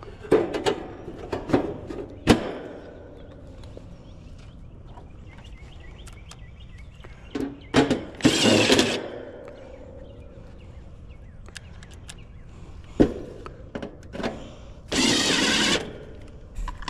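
Work noise: scattered knocks and clunks of tools and metal parts being handled, with a power tool running in two short bursts of about a second each, the second near the end.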